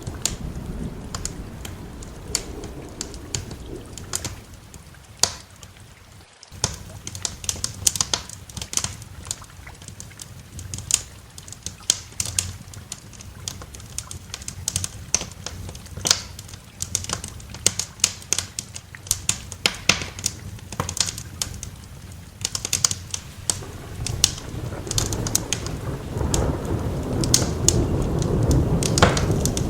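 Wood fire crackling with sharp, irregular pops over steady rain. A low thunder rumble swells in the last few seconds.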